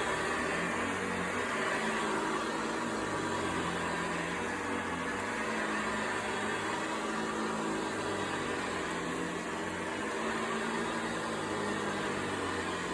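Vacuum cleaner running steadily: an even motor drone with a low hum that wavers slightly in pitch, under a broad rushing hiss.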